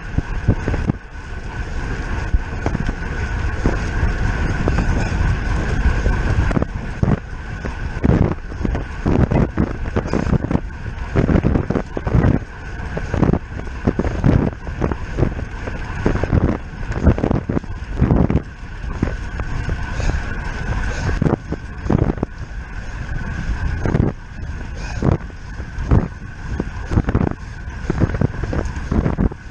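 Wind rushing and buffeting over the microphone of a bicycle-mounted camera while riding at race speed, with irregular gusty thumps and a steady high hum underneath.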